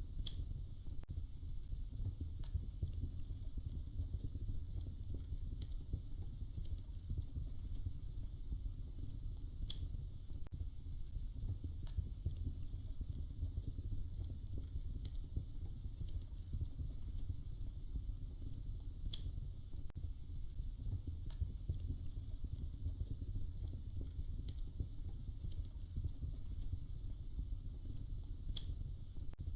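Crackling wood fire: a steady low rumble under sharp, sparse crackles and pops, roughly one every two seconds.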